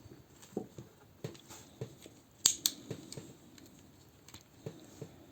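Plastic parts of a Transformers toy being handled and fitted together: scattered light clicks and taps, with two sharp snaps about two and a half seconds in.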